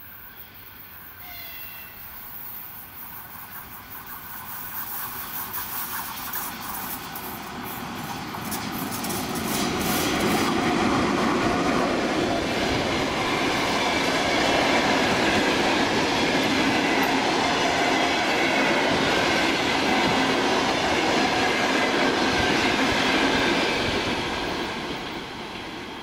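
Passenger train hauled by an EP1 electric locomotive approaching and passing through a station: the wheel and rail noise builds over about ten seconds, holds loud and steady as the coaches roll by, then starts to fade near the end.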